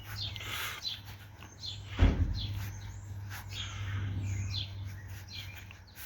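Birds chirping in short falling calls over a steady low hum, with one sharp thump about two seconds in.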